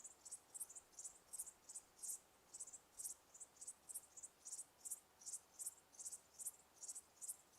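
Insect chirping: a steady series of short, high-pitched chirps, about three a second, faint against a soft background hiss.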